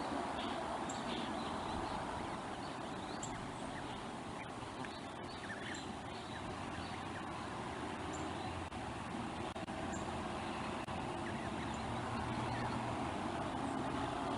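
Steady outdoor rumble on a nest-camera microphone, growing slightly louder near the end, with scattered faint bird chirps over it.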